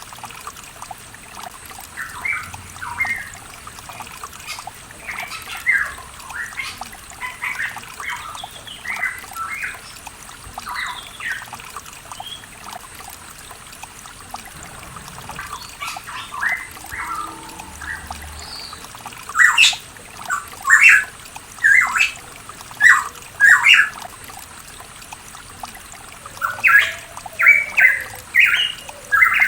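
Pitohui calling in a quick series of short notes, growing louder and denser about two-thirds of the way through, over a steady trickle of running water.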